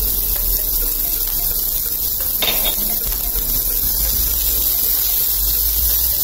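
Chopped onion and garlic sizzling in oil in a nonstick frying pan as a spatula stirs them, a steady frying hiss with one brief knock about two and a half seconds in.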